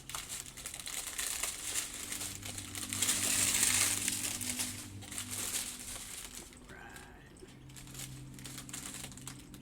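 Small plastic baggies of diamond-painting drills crinkling as they are handled and sorted, loudest about three to four seconds in and quieter towards the end.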